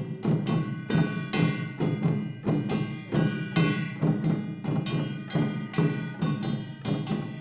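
Traditional Korean percussion ensemble (samul nori: janggu hourglass drum, buk barrel drum, jing gong and kkwaenggwari small gong) playing a steady, driving rhythm. Quick drum strokes run together with ringing metallic gong strikes.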